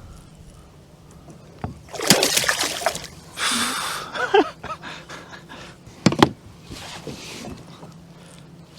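A hooked blue catfish thrashing and splashing at the side of a fishing kayak: two bursts of splashing about two and three and a half seconds in, then a pair of sharp knocks about six seconds in.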